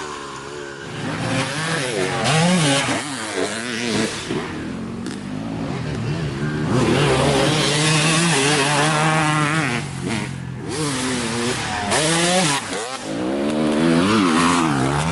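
Dirt bike engine being ridden hard, revving up and dropping off over and over as the throttle opens and closes, held at a steady high rev for a few seconds mid-way.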